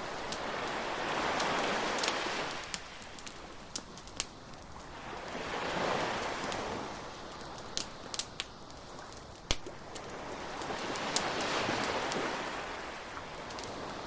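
Surf washing in and out in three slow swells, with sharp pops and crackles from a bonfire scattered between them.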